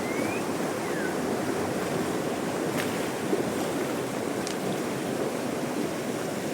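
Fast mountain river rushing steadily, with a couple of faint short high chirps near the start.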